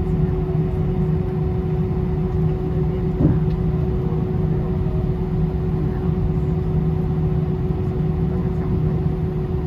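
Cabin noise inside an Airbus A320 airliner: a steady low rumble with a constant mid-pitched hum-tone. A brief knock comes about three seconds in.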